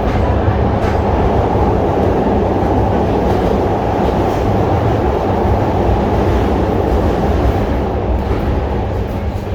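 ER9T electric multiple unit running along the line: a loud, steady rumble of wheels on rail, with a few faint clicks.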